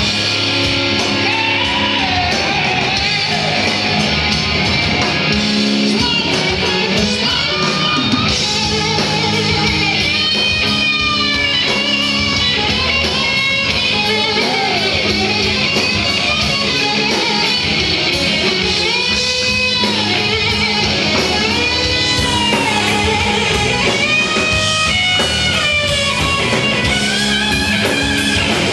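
Live rock band playing an instrumental break between verses, led by an electric guitar whose notes bend up and down.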